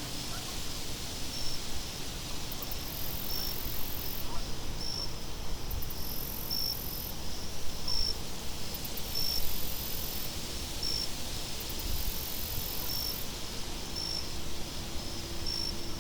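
Crickets chirping in a night ambience: short high chirps about once a second, with higher trills that come and go in stretches of a second or two, over a steady low rumble of wind.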